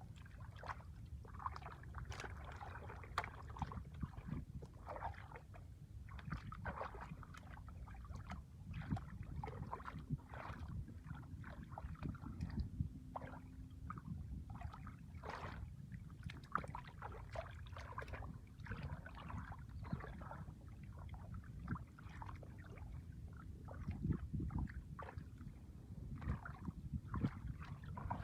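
Irregular splashing and sloshing in shallow water, many short splashes one after another over a low steady rumble.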